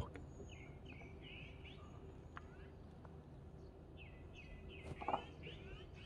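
Faint songbird song from hidden birds in the trees: two bouts of quick, repeated chirping notes, with a thin high whistle early on and a short louder note about five seconds in.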